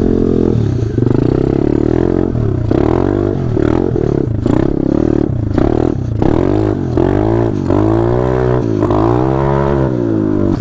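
Small single-cylinder off-road bike engine being ridden, its revs rising and falling over and over, about once a second, as the throttle is opened and closed.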